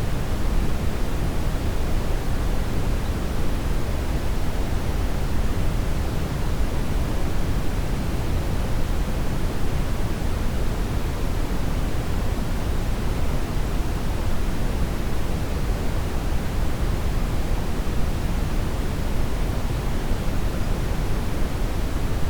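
Steady brown noise: an even, unchanging rush weighted toward the deep end, with no tones or breaks.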